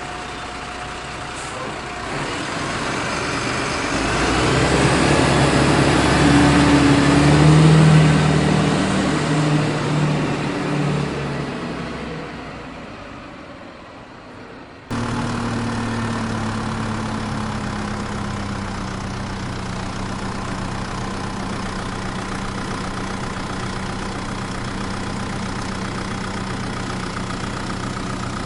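Truck engine sound effects. An engine grows louder, peaks about eight seconds in and fades away. About halfway through, the sound cuts abruptly to a steady engine idle.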